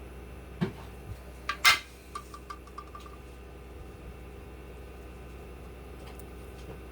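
Small metal parts handled on a workbench: a few light clicks, then a sharp metallic clink nearly two seconds in, followed by a quick run of small ticking clinks as the part rattles to rest.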